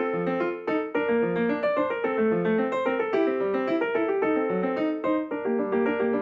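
Piano music, a steady stream of quick struck notes.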